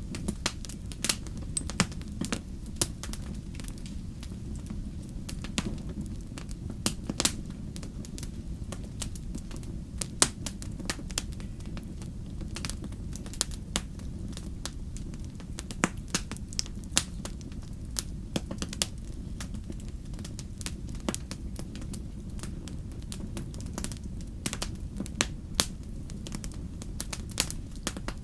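Wood fire crackling in a fireplace: a steady low rumble of the flames with irregular sharp pops and snaps throughout.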